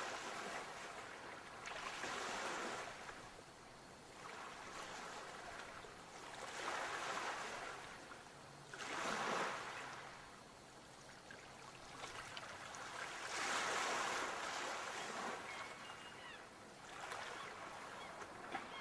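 Sea waves breaking and washing up the shore. Each wave swells and recedes over a few seconds, about five or six times.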